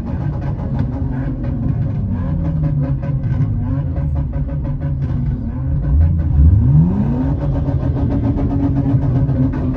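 Car engines running in slow, crowded traffic, heard from inside a car, with engines being revved; one rev rises sharply in pitch about six seconds in.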